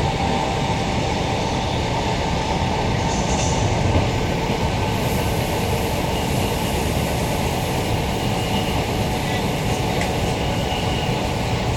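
Queensland Rail EMU electric multiple unit (Walkers-built, ASEA propulsion) running along the line, heard from inside the car: a steady rumble of wheels on rail with running noise, and a small knock about four seconds in.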